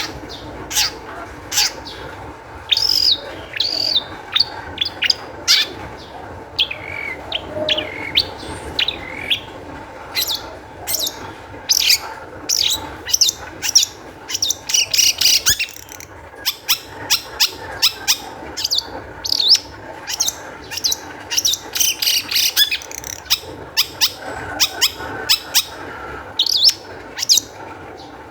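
Long-tailed shrike (cendet) singing in an excited, fast stream of sharp chips and short high notes, some of them slurring downward, with barely a pause between them.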